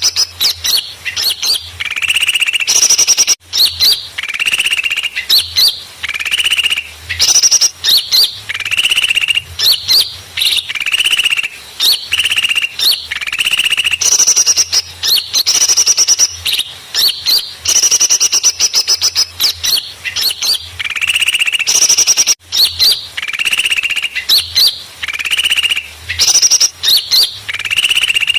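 Lure recording of small birds calling excitedly: dense, repeated high chirps and fast rattling trills. It is the agitated 'ribut' chorus used in Indonesia to pull small birds in for trapping.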